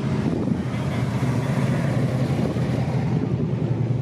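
A car engine running with a steady low exhaust note as the car drives slowly past.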